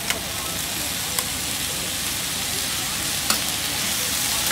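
Yakisoba noodles and vegetables sizzling on a hot griddle as they are stirred and turned, a steady frying hiss. Three sharp clicks of the spatula against the griddle plate come through it.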